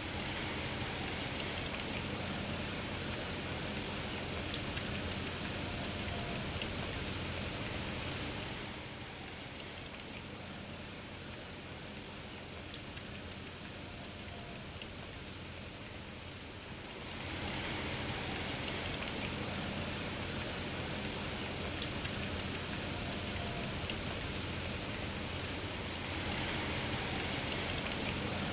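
Steady rain falling, with a few sharp single drop clicks. It eases for several seconds about a third of the way in, then picks up again.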